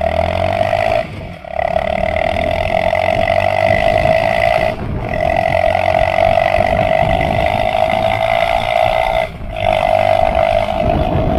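Bajaj Pulsar NS160's single-cylinder engine running hard through a taped-on aftermarket exhaust, a loud, steady exhaust note that briefly drops out three times.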